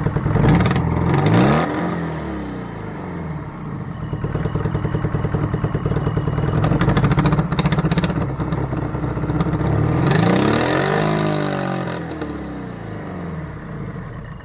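1985 Toyota MR2's rebuilt four-cylinder engine running and surging up in revs twice, once about a second in and again near ten seconds, dropping back each time and winding down at the end. It races to high revs by itself when the intake flap valve is pushed in, a fault the builders have not yet traced.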